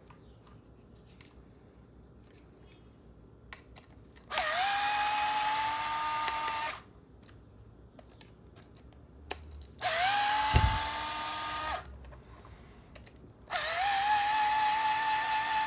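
A cordless power driver whines in three runs of two to three seconds each, backing screws out of an RC car's gearbox case. Each run sweeps up quickly to a steady pitch. A low thump comes during the second run.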